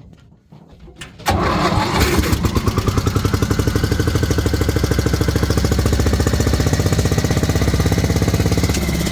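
16 hp Briggs & Stratton engine driving a Hale high-pressure fire pump, starting abruptly a little over a second in and then running steadily with an even pulse. Its exhaust is routed through the primer venturi, drawing water from the tank into the pump to prime it.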